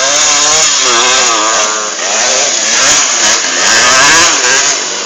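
Motocross bike engines revving hard, their buzzing pitch rising and falling again and again with the throttle.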